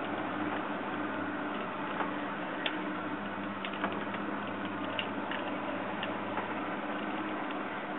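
Boat engine running at a steady pitch while under way, with faint, irregular clicks and ticks over it.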